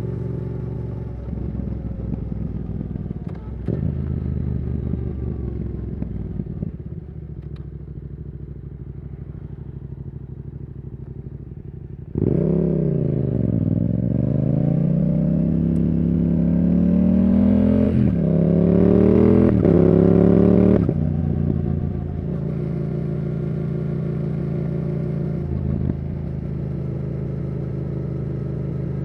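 Yamaha R7's CP2 parallel-twin engine through a Yoshimura R77 exhaust, running at steady part throttle. About twelve seconds in it opens up hard, the pitch climbing under acceleration with two quick upshifts, then it eases back to a steady cruise about nine seconds later.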